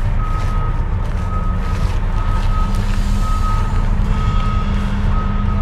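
A single high electronic beep repeating over and over, roughly once a second, like a vehicle's reversing alarm, over a steady low rumble.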